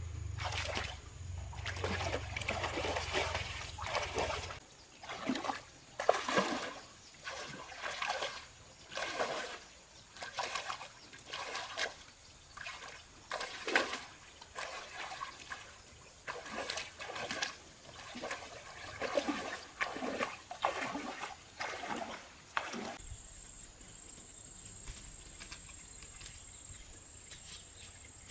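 Water being splashed and poured over and over, about one splash a second, stopping a few seconds before the end; then only a steady high insect drone is left.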